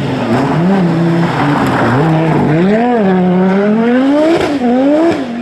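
Rally car engine revving hard under acceleration. Its pitch climbs and drops several times as it shifts gear, with one longer steady climb before a drop about four seconds in.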